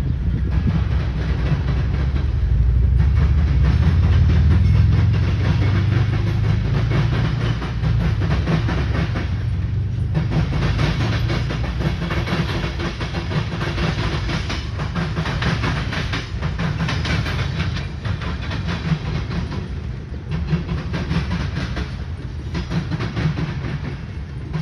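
Manifest freight train rolling past, with a steady rumble and wheels clacking over the rail joints as the cars go by.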